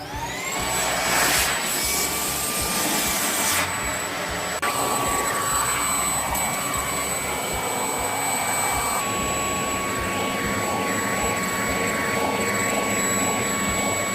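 Shark DuoClean cordless upright vacuum cleaner's motor spinning up with a rising whine, then running steadily with a high whine, its sound changing a few seconds in and again about halfway through. It cuts off abruptly at the end, which she reads as the battery running low.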